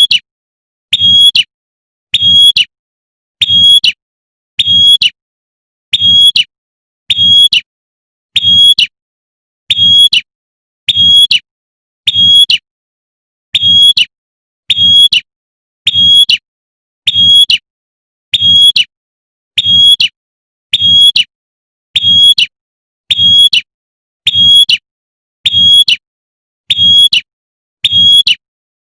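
Female prenjak (prinia) giving its sharp 'tembakan' call, a short high note repeated about once every second and a bit, with one slightly longer pause partway through.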